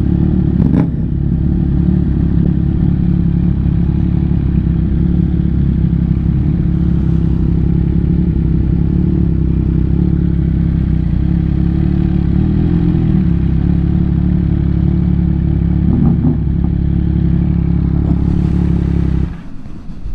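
MV Agusta F3 three-cylinder engine with an aftermarket exhaust, running steadily at low, even revs. It cuts off suddenly near the end.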